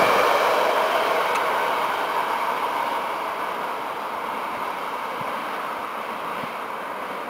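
Train rolling past on the line, its rolling noise fading steadily as it moves away.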